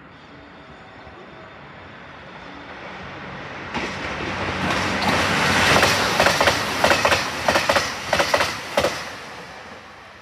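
Train passing through the station at speed. Its rushing noise swells suddenly about a third of the way in. Near the middle comes a quick run of sharp wheel clacks, and then the noise fades.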